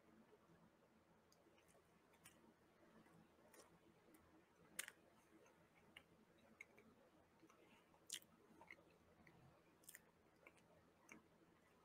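Faint chewing of a soft, chocolate-coated Gansito snack cake: quiet, irregular mouth clicks and smacks, with a few sharper clicks about five and eight seconds in.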